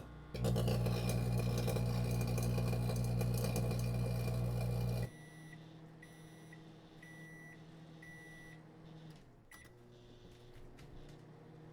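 Broken-electronics sound effect: a loud electrical buzz with crackle for about five seconds that cuts off suddenly, then a quieter hum under a series of short and longer high beeps.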